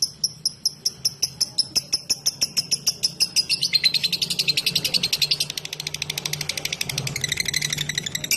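Lovebird singing in the 'ngetik' style: a fast train of short, high chirps, about five a second at first, that speeds up into a dense, rapid chatter about halfway through.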